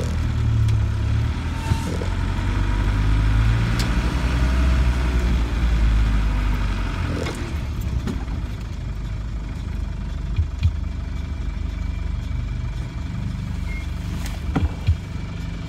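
A diesel Land Rover's engine heard from inside the cab. It runs under way at first, then drops to a quieter idle about halfway through as the vehicle comes to a stop. A few light knocks and clicks sound near the end.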